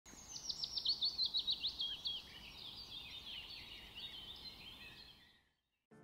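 Birdsong: a fast run of high, downward-sweeping notes, about five a second, for about two seconds, then softer, varied chirping that fades out just before the end.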